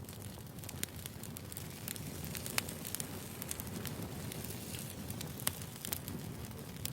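Wood fire burning: a steady low rumble with frequent small crackles and a few sharper pops, as the firewood burns.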